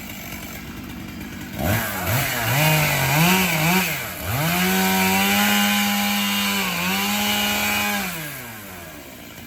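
Two-stroke chainsaw revved in several quick throttle blips, then held at high revs for about three and a half seconds before the revs fall away near the end.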